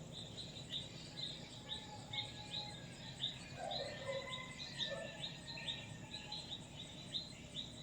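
Birds chirping: a short, high, falling chirp repeated about three times a second, with a couple of lower calls about halfway through.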